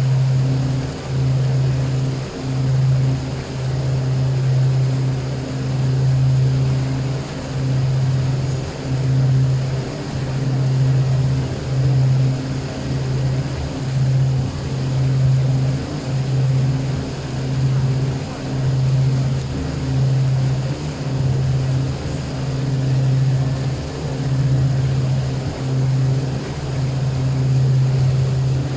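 A boat engine running steadily, a low drone whose level swells and dips every second or so.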